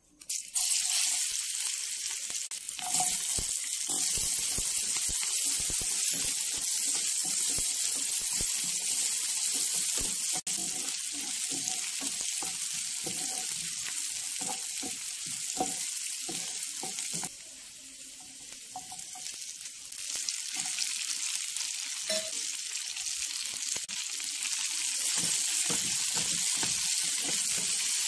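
Sliced onions and garlic frying in hot oil in a nonstick pan: a steady sizzle that starts just as they go in, with a wooden spatula scraping and stirring. The sizzle drops for a few seconds about two-thirds of the way through, then comes back.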